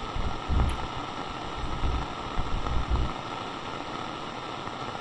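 Steady hiss of walkie-talkie radio static, with irregular low rumbles during the first three seconds that then stop, leaving only the hiss.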